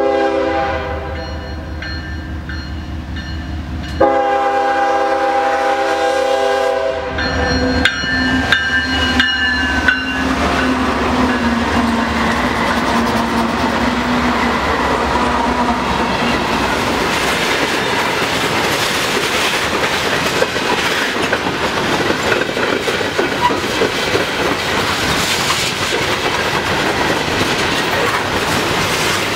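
Air horn of a Norfolk Southern GE ES44DC leading a freight train: a blast at the start, then a louder, longer blast about four seconds in, followed by a falling tone around eight seconds in as the locomotives pass. After that, the three GE diesel locomotives and a string of loaded coal-coke open hoppers roll by, with clickety-clack of the wheels over the rail joints.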